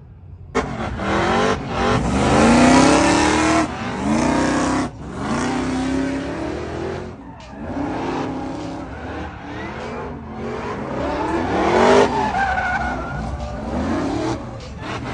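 A car engine revving hard in repeated pulls, its pitch climbing and falling again and again. It cuts in suddenly about half a second in.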